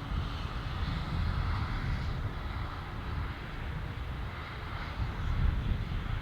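Airbus A319 jet engines running as the airliner comes in to land, a steady noise with gusts of wind rumbling on the microphone.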